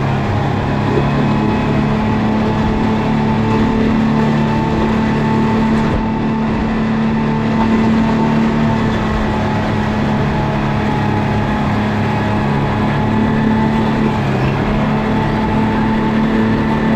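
Motorboat engine running at a steady pitch, with a constant rush of noise over it.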